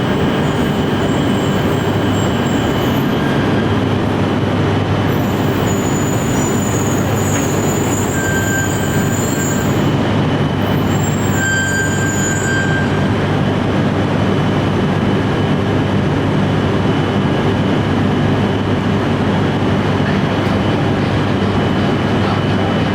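Shinkansen trains in a station: a loud, steady hum of running equipment with a thin steady whine, and short high-pitched wheel squeals that come and go in the first half.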